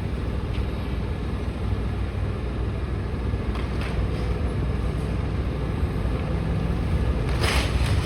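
Demolition excavator's diesel engine running steadily, with a brief crash of breaking material near the end as the machine works on the houses.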